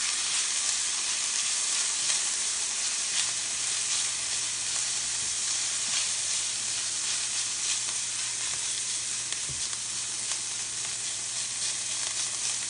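Chopped onion, garlic and bell peppers sizzling steadily as they sauté in a stainless steel skillet, stirred with a spatula that now and then taps and scrapes lightly on the pan.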